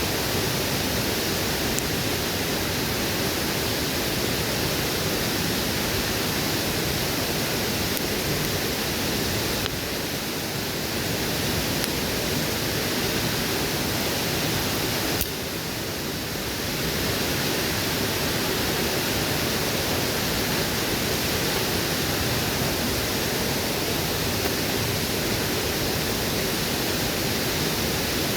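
Waterfall rushing in a steady, even wash of water noise, briefly a little softer twice near the middle.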